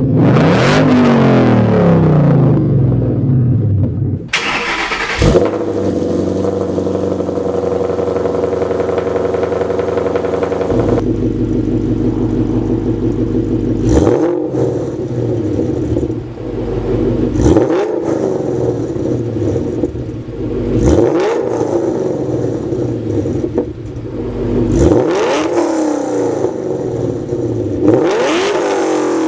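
Ford Mustang (2011–2014, S197) engine and exhaust, revved at the start, then idling steadily, then blipped five times at about three-to-four-second intervals, each rev rising quickly and falling back to idle.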